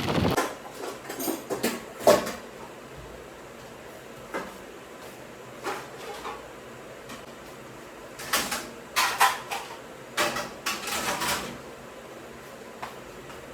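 Scattered knocks and clatters of kitchen work: cupboard doors and dishes being handled, in short clusters with pauses between, busiest in the latter half.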